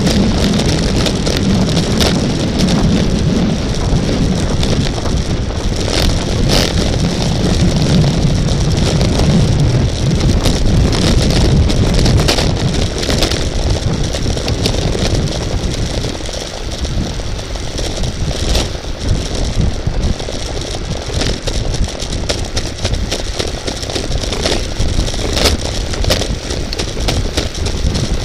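Wind rushing over the microphone of a camera on a moving racing bicycle, with scattered clicks and rattles from the bike. It is steady and loud throughout, and the low rumble eases a little about halfway through.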